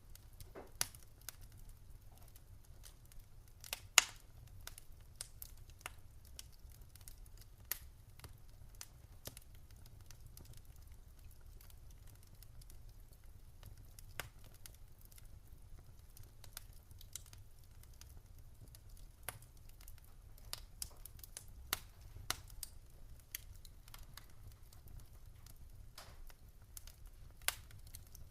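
Wood fire crackling in a fireplace: irregular sharp pops and snaps over a faint steady low rumble, the loudest pop about four seconds in.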